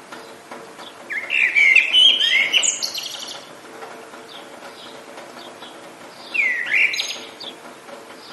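Songbird singing two loud, rapid, sweeping phrases, one about a second in and another near the end, with faint chirps from other birds in between.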